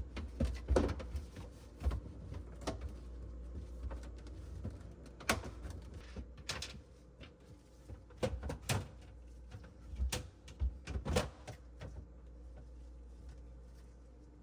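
Irregular knocks and clicks of refrigerator parts being handled, over a steady low hum.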